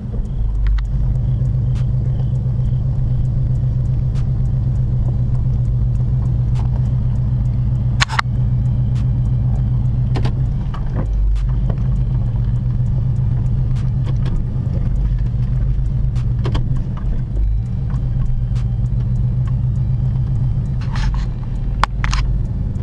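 Dodge Charger's 5.7-litre Hemi V8 running steadily without revving, heard from inside the cabin as a low drone. A single sharp click comes about eight seconds in, and a couple of fainter ticks come near the end.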